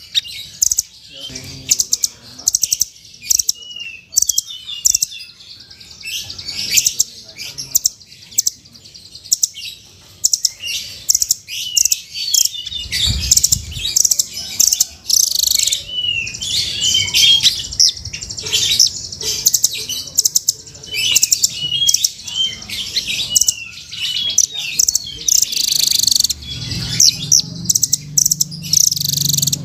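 Velvet-fronted nuthatch (rambatan) calling continuously: rapid sharp high chips and short twittering trills, with a dull thump about 13 seconds in.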